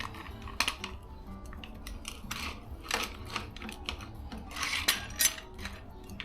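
Metal clinks and knocks at an irregular pace as a car jack is repositioned and adjusted to lift the car higher.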